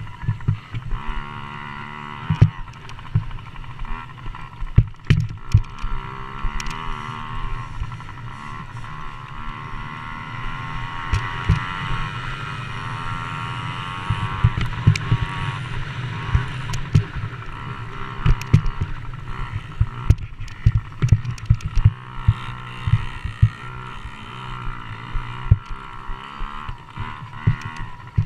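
Motocross dirt bike engines racing, their pitch rising and falling as riders rev and shift, over a steady low rumble. Frequent short knocks and thumps sound throughout.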